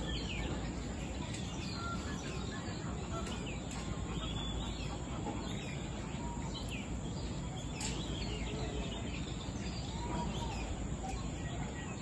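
Birds chirping and whistling in short, scattered calls over a steady low rumble of background noise.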